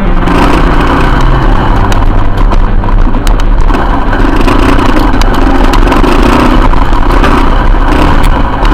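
Motorcycle engine running while riding, loud and steady, its pitch shifting a few times.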